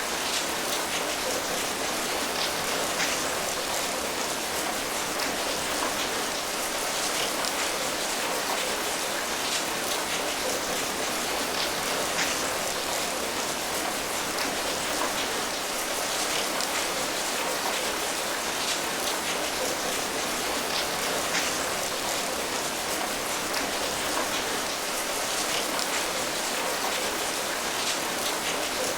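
Steady rain, an even hiss with many small drops pattering on a surface.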